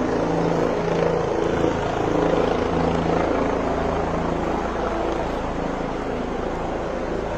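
Helicopter running steadily, a constant low engine and rotor hum.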